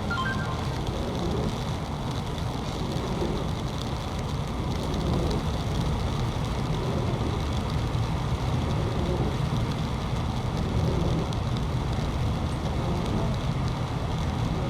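Steady low rumble of vehicle noise mixed with heavy rain, with a few short high beeps at the very start.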